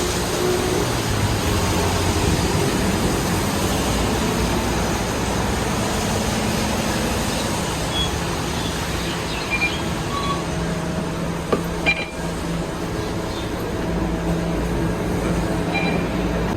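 Scania K230UB city bus running, its engine drone and road noise steady, with a couple of sharp knocks about twelve seconds in.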